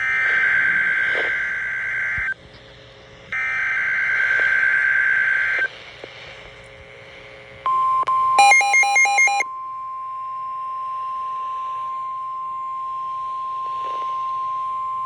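NOAA Weather Radio alert signals from a weather radio's speaker: two bursts of screechy SAME digital header data, each about two seconds long, then the steady 1050 Hz warning alarm tone, which is held for about nine seconds. A short burst of warbling beeps sounds over the tone about a second after it starts. Together these signals mark the start of a warning broadcast, here a high wind warning.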